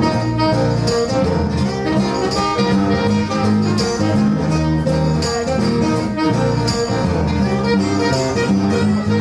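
Live band playing an instrumental passage of a reggae song, with guitar and bass over a steady beat.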